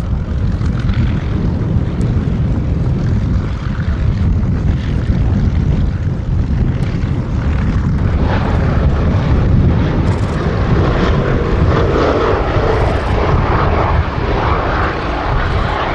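Boeing B-17G Flying Fortress's four Wright Cyclone nine-cylinder radial engines running with a deep, steady propeller drone, which grows fuller from about halfway through.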